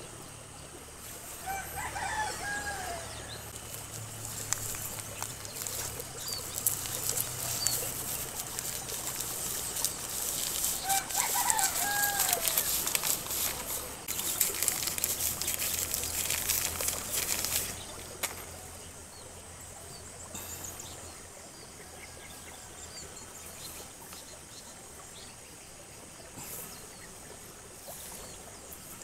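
Two short bird calls, about two seconds and eleven seconds in. Between them and after, from about ten to eighteen seconds in, a louder rustling as a plastic seedling polybag and soil are handled.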